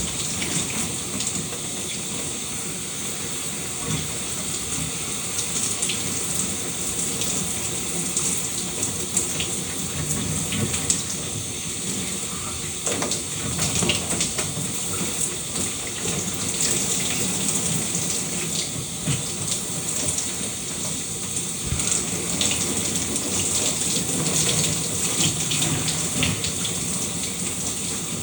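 Shower running steadily, water spraying and splashing with scattered droplet spatters.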